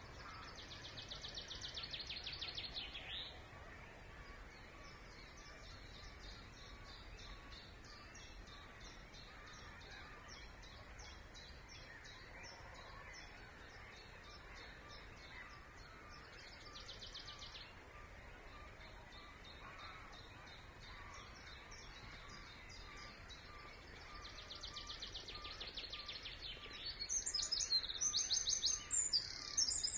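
Several songbirds singing in a spring wetland. There are fast high trills at the start, midway and near the end, and a long scratchy chattering song between them. A faint low note repeats about once a second underneath. Louder song comes in near the end.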